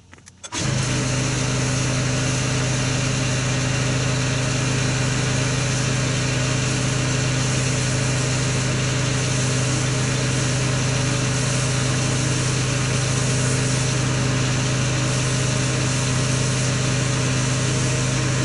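A motor running steadily, with a strong low hum and an even hiss over it, starting abruptly about half a second in.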